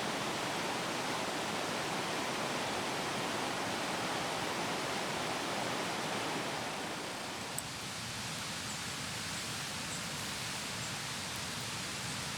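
Steady hiss of rain falling, easing slightly about seven seconds in, with one faint click.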